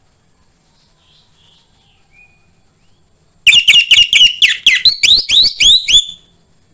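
Orange-headed thrush (anis merah) giving a rapid run of about a dozen loud, sharply up-slurred chirps, about five a second, starting about halfway in and lasting about two and a half seconds.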